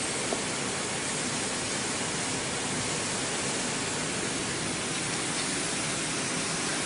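Steady, even hiss of background noise, with no distinct tone or rhythm.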